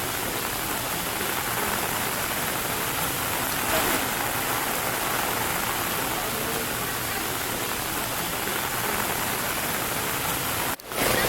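Steady heavy rain falling, an even hiss with no break until it cuts out briefly near the end.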